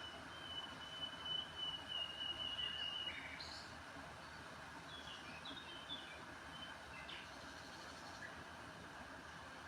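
Small birds calling over a steady background hiss. A thin, high held note runs for about the first three seconds, then short high chirps come at scattered intervals.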